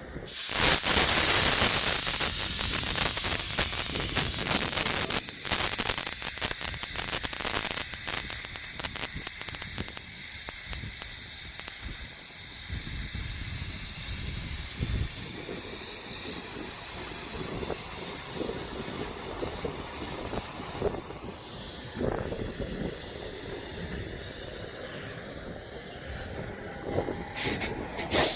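Compressed air hissing loudly from a semi-truck's air brake system, starting suddenly and slowly fading over many seconds. A few short knocks near the end.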